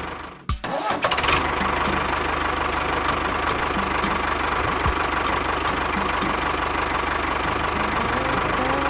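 Small engine briefly cutting out with a thump, then starting again about a second in and running steadily with a fast, even beat.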